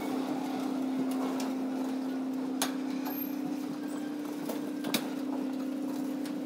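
Loaded freight cars, centerbeam lumber flatcars and a tank car, rolling slowly along yard track under a steady low hum, with two sharp metallic clicks from the wheels and couplings about two and a half seconds apart.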